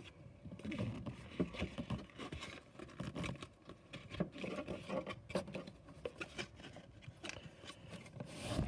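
Cardboard being handled and folded: scattered light scrapes, rustles and small taps as a tab is worked into a slot.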